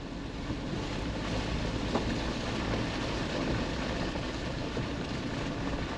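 Suzuki Jimny driving on a wet, muddy dirt road: steady engine and tyre noise, with the tyres throwing up mud onto the car.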